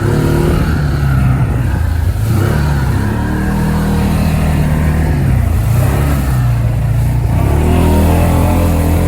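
Side-by-side UTV engine running under load on a trail, revving up and easing off several times, with its pitch dipping about two seconds in and climbing again near the end.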